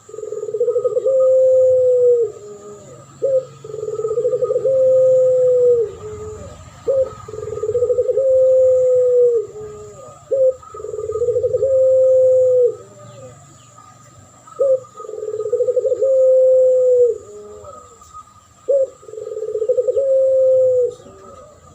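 Dove cooing, played as a lure recording: a long coo repeated six times, about every three and a half seconds. Each coo is a short note, then a rolling start, then a long held note that drops at the end.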